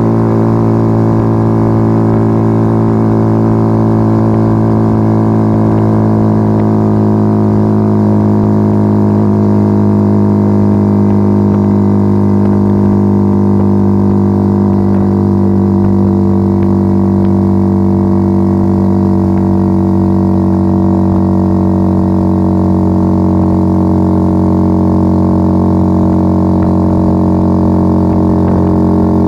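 Yamaha XV125 Virago's 125 cc V-twin engine through a straight-piped Turbo Kit exhaust with its dB killers removed, held at a steady speed with an even, loud droning exhaust note.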